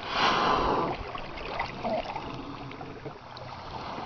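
A whale's blow: one loud, breathy exhalation lasting under a second at the start, then a softer wash of water around the kayak.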